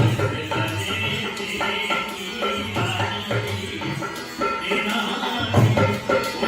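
Live Rajasthani folk music: hand drums beat a lively rhythm under pitched melody instruments.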